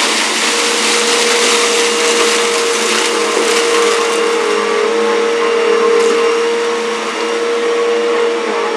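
Bissell bagless upright vacuum running on the low carpet setting through its power head: a steady motor whine over a rush of air, with scattered faint ticks of kitty litter grit being sucked up.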